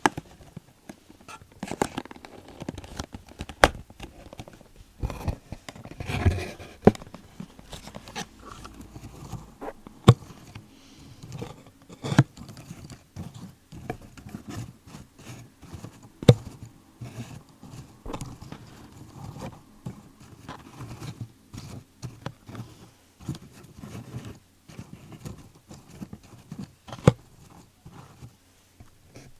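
Close-up ASMR trigger sounds: irregular, quick taps and clicks on objects, a few a second, with a denser stretch of rustling and tapping about six seconds in.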